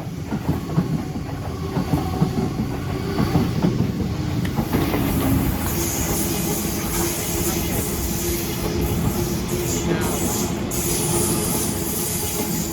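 Sydney electric suburban train running past on the rails: wheels clattering, the noise building over the first few seconds, then a steady whine through the middle with a high hiss above it.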